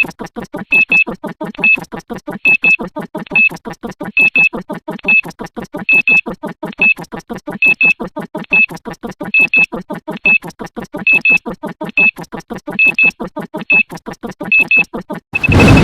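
An electronic sound-effect loop of rapid, even pulses, with a pair of high beeps repeating a little more often than once a second. Near the end it gives way to a louder, harsh noise with a steady high tone.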